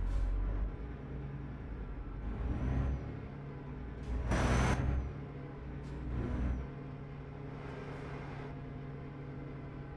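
Truck engine running steadily, heard from inside the cab, with a loud air-brake hiss about four seconds in and softer hisses shortly before and after it.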